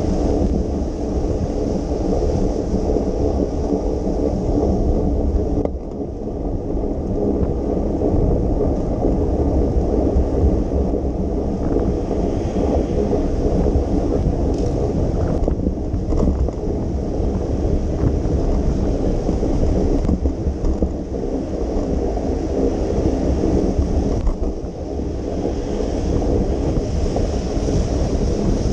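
Wind buffeting the microphone of a camera on a moving bicycle in the rain: a steady, loud low rumble with a fainter hiss above it, dipping briefly a few times.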